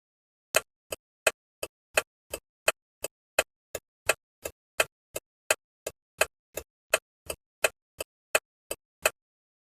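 Bus turn-signal indicator ticking, about three clicks a second, alternating louder and softer clicks for the on and off of each flash. It stops about a second before the end.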